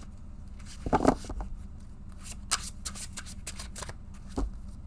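A deck of tarot cards being shuffled by hand, a run of quick papery clicks and rustles with a louder flurry about a second in.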